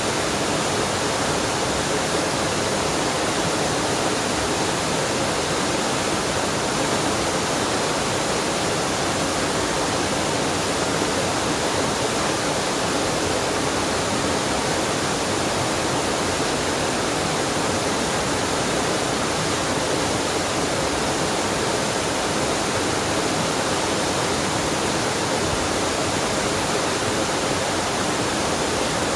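Waterfall and mountain stream water rushing in a steady, unbroken roar with no change in level.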